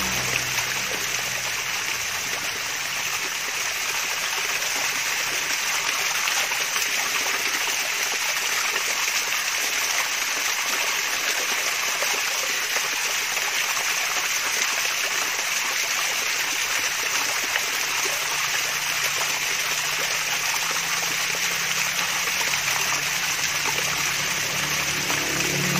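Water splashing and trickling steadily over a small mini waterfall, a continuous babbling with no breaks.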